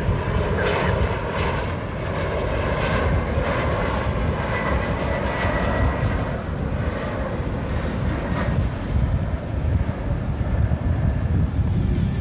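Jet airliner engines running, a steady rushing noise with a deep rumble.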